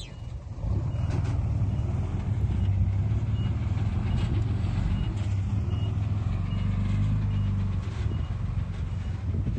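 Heavy diesel engine of earthmoving machinery running steadily as a deep drone, which grows louder about a second in. Faint short high pips repeat about twice a second over it.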